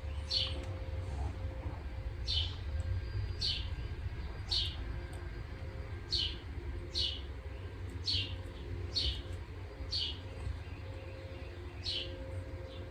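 A bird chirping over and over, short high notes that each fall in pitch, about one a second, over a low steady rumble.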